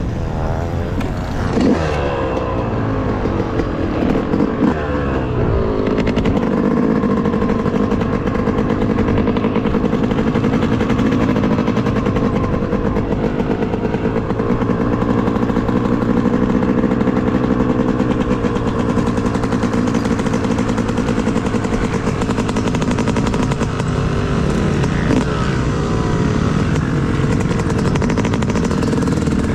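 Two-stroke dirt bike engine, a 2018 Yamaha YZ250X, being ridden on a motocross track. It revs up and down through the gears in the first few seconds and again near the end, and pulls at a steadier pitch in between.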